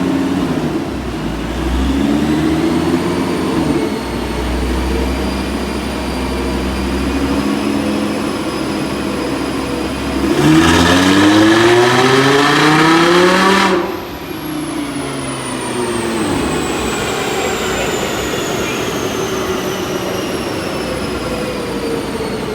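Supercharged Audi R8's 5.2-litre V10 running on a chassis dyno: it climbs through the revs in stages, then makes a loud full-throttle pull with rising pitch from about ten seconds in. The pull cuts off suddenly about fourteen seconds in as the run aborts, and the engine and rollers coast down with a high whine falling in pitch.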